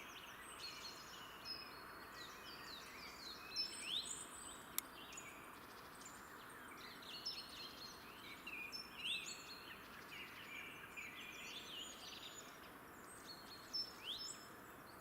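Wild songbirds singing and calling, many short rising chirps and song phrases overlapping, over a faint steady background hiss.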